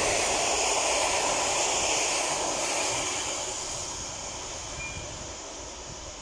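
Passenger train hauled by an electric locomotive rolling past and away. The steady rumble of wheels on rail fades as it recedes.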